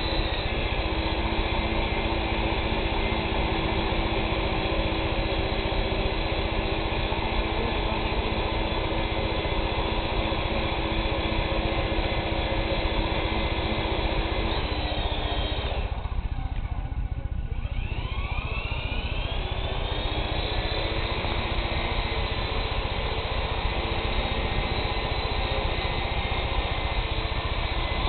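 Graupner Bell 47G model helicopter hovering and spinning around on the spot, its rotor and motor whirring steadily. A little past halfway the sound thins briefly and its tones sweep in pitch before settling again.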